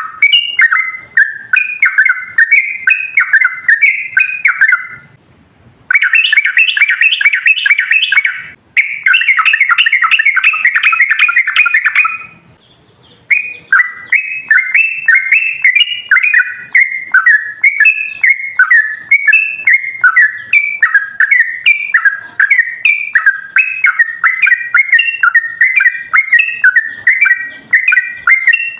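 Yellow-vented bulbul (trucukan) singing long runs of quick, bubbly chattering notes, with two faster, denser trills about a third of the way in and short breaks between the runs. This is the long rapid 'ropel panjang' song that keepers play as a lure to set other bulbuls singing.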